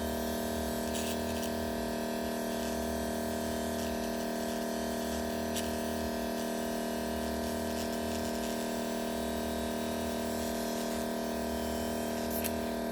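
Steady electrical hum with several fixed tones over a faint hiss, unchanging throughout.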